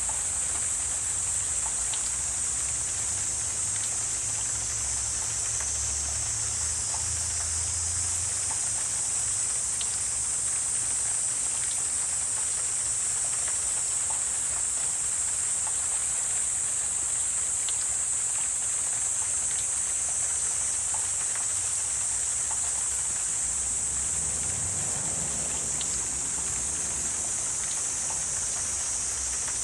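Steady, high-pitched chorus of insects chirring without a break, with a faint low rumble near the start and again near the end.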